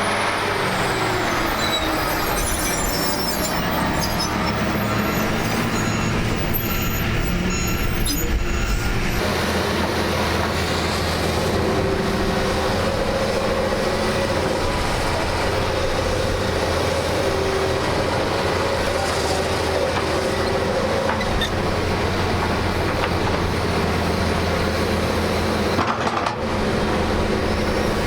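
Heavy tracked construction equipment running steadily, a diesel engine's drone mixed with clanking and squealing from the tracks, with a change in the engine's low hum about nine seconds in.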